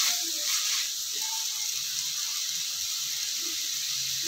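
Diced potatoes, onions and tomatoes frying in an aluminium pan, a steady sizzle as they are stirred with a silicone spatula.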